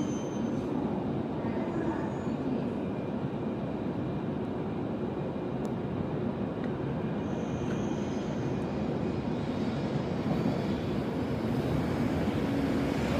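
Shinkansen train pulling into the platform, a steady running rumble that slowly grows louder as it comes in.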